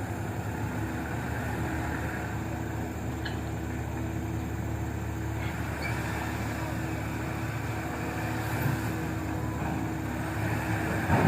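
Diesel truck engine running steadily under heavy load as the truck works through sticky mud.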